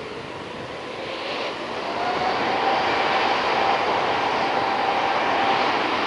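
Jet airliner's engines rushing, growing louder over the first couple of seconds and then holding steady, with a faint whine running through the noise.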